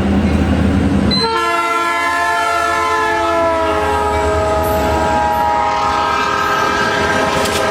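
Train air horn sounding one long blast of several notes at once, starting about a second in and slowly sliding lower in pitch as it holds. Before the horn there is a low engine rumble, and there is a sharp click near the end.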